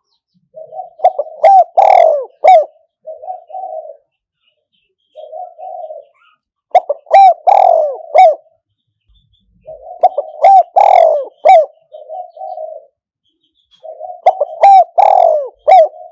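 Spotted dove cooing as a decoy bird: a loud, repeated phrase about every four to five seconds, four times, each starting and ending with softer coos around louder ones in the middle.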